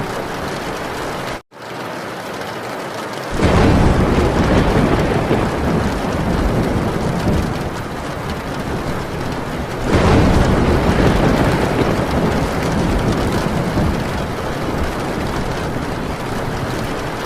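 Heavy rain falling on a metal tin roof, with a long roll of thunder coming in suddenly about three seconds in and a second one about ten seconds in, each fading over several seconds. The sound cuts out for an instant about a second and a half in.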